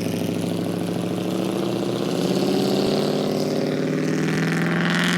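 Vehicle engine running steadily, its note rising a little as the revs pick up about two seconds in.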